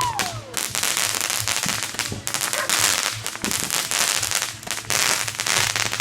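Fireworks crackling: a dense, continuous rattle of many small pops. A whistle glides downward and fades in the first half second.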